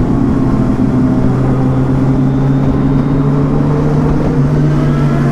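Motorcycle engine running steadily at an even pitch, with a constant noisy rush over it.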